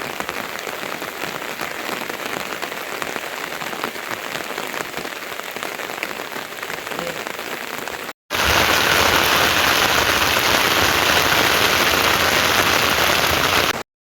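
Steady rain falling, with fine drop patter; about eight seconds in it cuts to louder, denser rain, which stops abruptly near the end.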